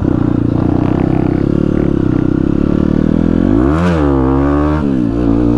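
Dirt bike engine running at a steady speed, then revved up and back down about four seconds in.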